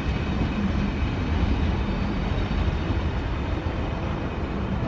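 Alstom Coradia iLint hydrogen fuel-cell train running past: a steady rumble of wheels on rails with a low, even hum.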